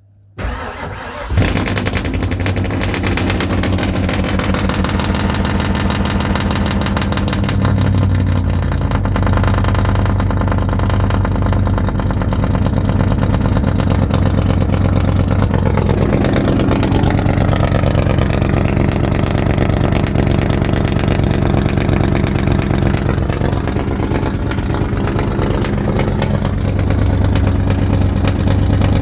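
Ford 351 Windsor small-block V8 cranking briefly and catching on a cold start, then running at a steady idle. The engine speed shifts a few times, dipping and rising about a third and two-thirds of the way through.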